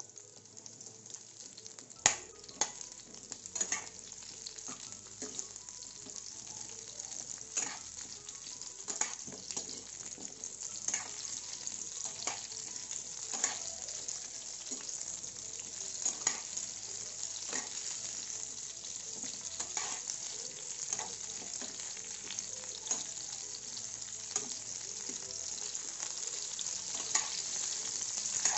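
Halved okra frying in a few spoons of hot oil in a metal pan: a steady sizzle that grows slowly louder. A steel spoon stirring it clinks and scrapes against the pan every second or so, with the sharpest clink about two seconds in.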